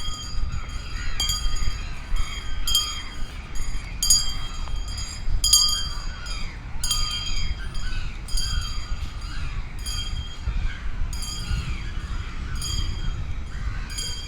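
Outdoor ambience: a sharp, ringing click repeats about once a second over a steady low rumble, with faint chirping glides behind it.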